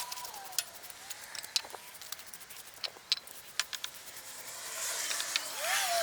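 Scattered sharp clicks and crackles of dry plant material being handled and trimmed during garden clean-up, with a car passing by, louder from about five seconds in.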